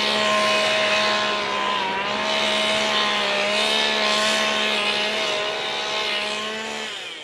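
Small petrol engine of brush-cutting equipment running steadily at a fairly high, slightly wavering pitch, fading out at the very end.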